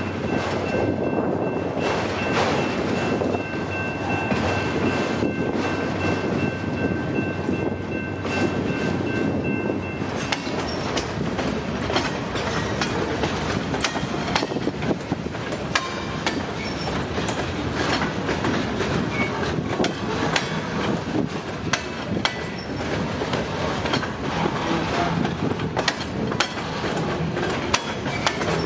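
Freight cars rolling past close by: a steady rumble of steel wheels on rail with rapid clicking and clacking over the rail joints. A thin high wheel squeal runs over the first third and cuts off abruptly; after that the clacking is sharper and busier.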